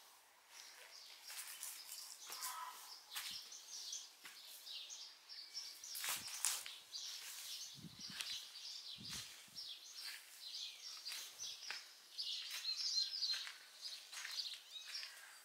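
Small birds chirping and twittering on and off, with scattered light crackles and a few soft thumps.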